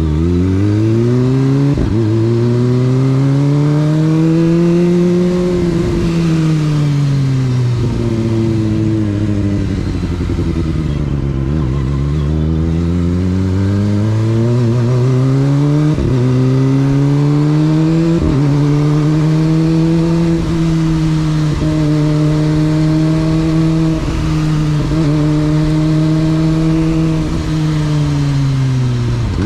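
Motorcycle engine under way: it revs up, drops back to a low pitch, then climbs again. After that it holds a fairly steady pitch, broken by several short dips.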